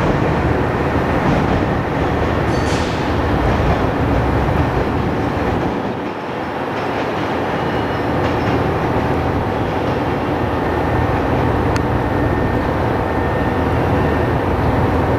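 Diesel railcar running through a station: a steady engine and rail rumble that dips briefly about six seconds in.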